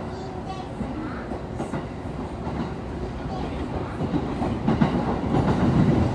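Electric commuter train running on the rails, heard from inside a car: a steady rumble with the clicks of wheels over rail joints, growing louder toward the end.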